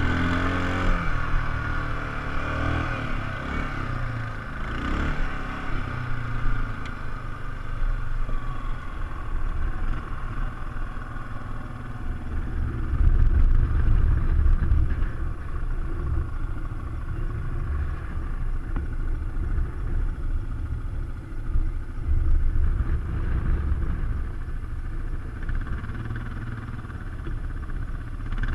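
ATV engine running, its pitch rising and falling over the first few seconds, under a heavy low rumble that swells about halfway through.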